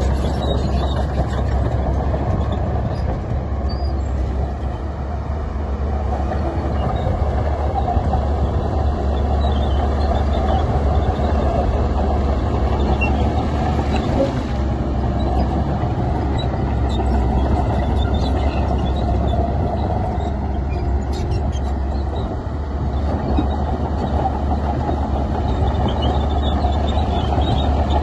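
Heavy diesel earthmoving machinery, a bulldozer and dump trucks, running steadily: a continuous low engine drone with a few faint knocks.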